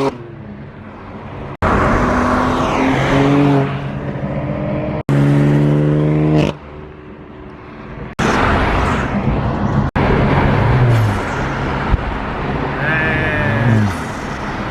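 Performance car engines revving and driving past in a string of short edited clips, each loud engine note broken off abruptly by a cut.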